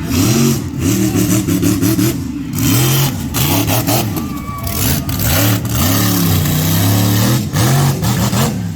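Monster truck engine revving up and down over and over, loud and close, with the pitch rising and falling every second or so.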